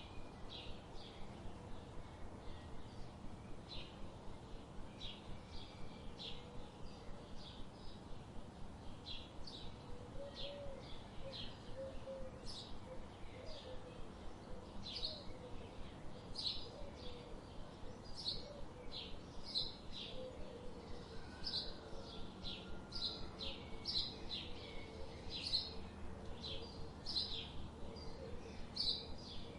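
Birds chirping: short, high chirps repeating quickly, about two or three a second, over a faint steady background hum.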